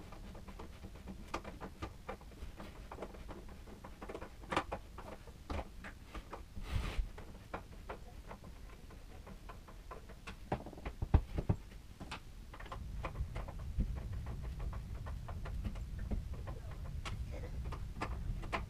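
Irregular clicks, taps and knocks, a quick cluster of sharper knocks a little past the middle, with a low steady hum coming in about two-thirds of the way through.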